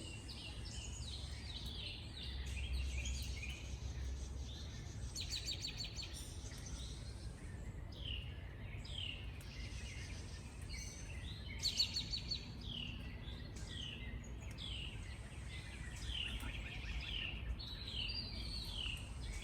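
Several songbirds singing at once in a chorus, with rapid trills and a run of repeated falling whistled notes over a steady low background rumble.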